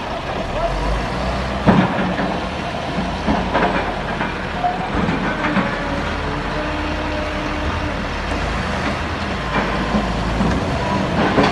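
Heavy diesel earthmoving machinery running steadily, with a few sharp knocks and clanks now and then.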